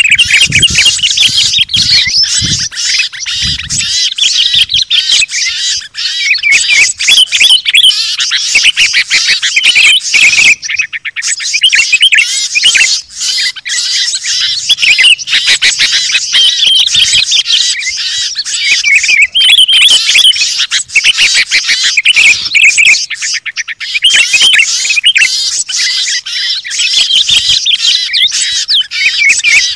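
A loud, dense chorus of many small songbirds chirping and trilling over one another, a mixed bird-lure recording of the kind used to draw wild birds down. Fast rattling calls stand out about ten seconds in and again near the end.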